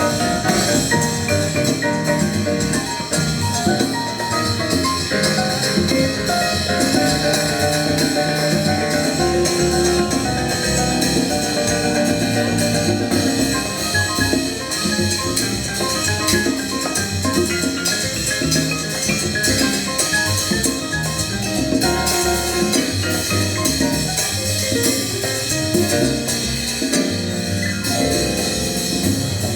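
Latin jazz ensemble playing live: continuous band music with percussion keeping a steady beat.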